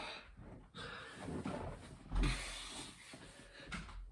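Hard, rasping breathing from a man mid-way through a set of burpees, with a dull thud about two seconds in as his body meets the floor.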